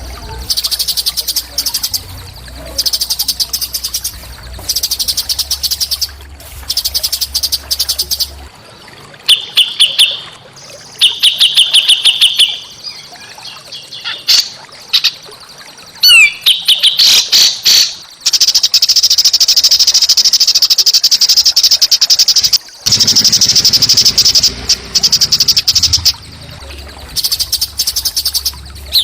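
Small songbird singing rapid, high, buzzy trills in bursts about a second long with short gaps between them. Around the middle a few quick notes slide downward, and in the second half one trill runs on unbroken for several seconds. A low steady hum sits under the first third.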